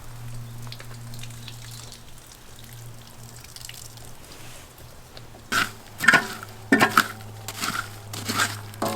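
A faint steady low hum, then from about halfway a run of sharp metallic clinks and clatters, like metal camp gear or blades knocking together.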